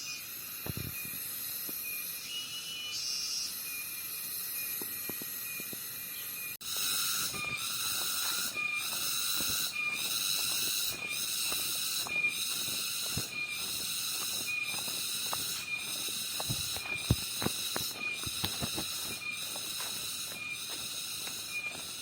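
Cicadas buzzing in a high-pitched drone. About six and a half seconds in, it becomes a louder chorus that pulses roughly once a second. Faint soft knocks run underneath.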